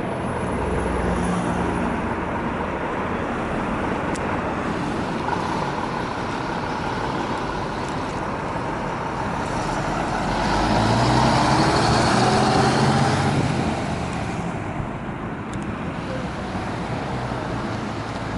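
Road vehicle running with steady engine and road noise; about ten seconds in the engine grows louder and rises in pitch as it accelerates, then settles back.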